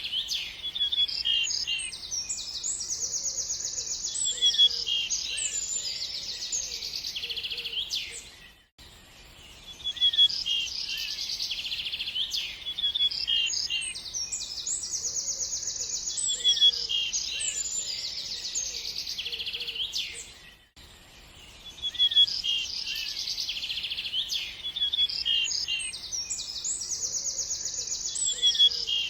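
Songbirds chirping and trilling, several quick high calls overlapping. It is a looped recording: the same stretch of calls repeats about every 12 seconds, with a short drop to near silence between repeats.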